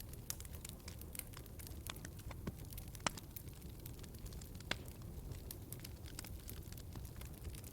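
Wood fire in a fireplace crackling: scattered sharp pops and snaps over a low steady rumble, the loudest pop about three seconds in.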